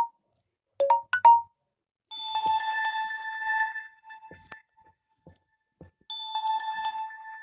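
Mobile phone ringtone: two quick electronic chirps about a second in, then a held electronic tone with bright overtones for about two and a half seconds. The held tone returns about six seconds in.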